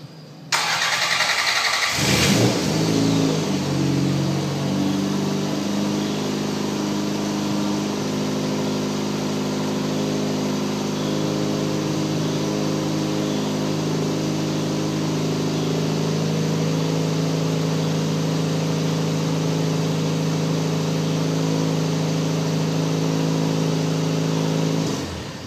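Toyota 3S-GTE turbocharged 2.0-litre inline-four, freshly swapped into the car, on its first start: it cranks briefly, catches about two seconds in, flares up and settles into a steady idle, then is shut off near the end.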